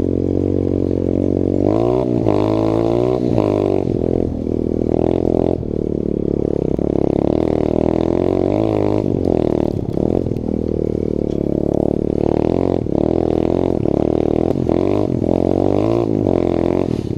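Pit bike engine under way, its revs rising and falling over and over as it is ridden.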